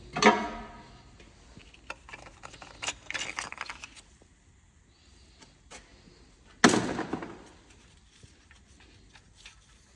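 Two loud metallic clanks that ring out briefly, one just after the start and one about two thirds through, with a flurry of lighter clicks and rattles between them: hand tools being handled and set down during work on a car engine.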